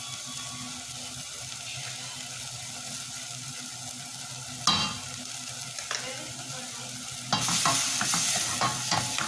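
Chicken cooking in a pan, sizzling steadily, with a single sharp clank a little before halfway. Near the end the sizzle gets louder and a utensil clicks and scrapes against the pan as the contents are stirred.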